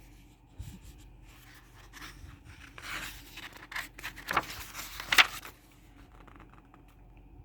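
Paper rustling and scraping as a picture-book page is handled and turned, with a few sharper scrapes, the loudest about five seconds in.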